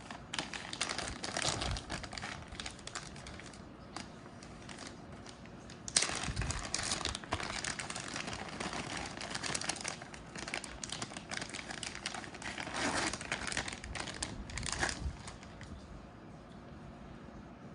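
Plastic packaging bags crinkling and rustling as small accessories are unpacked and handled, in several bouts, with a sharp click about six seconds in.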